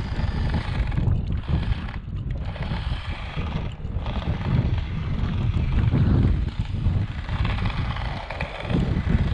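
Wind buffeting the microphone with a low rumble, over the whirring of a small 1/28-scale RC drift car's 130 brushed motor and tyres as it drives about. The higher whirr drops out briefly a few times.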